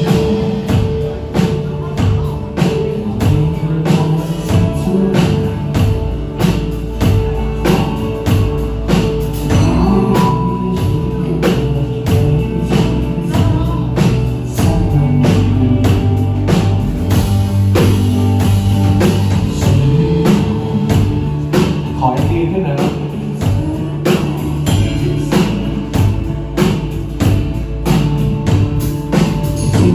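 Live rock band playing through the PA: a drum kit keeping a steady beat under a bass line and electric guitar, with no break.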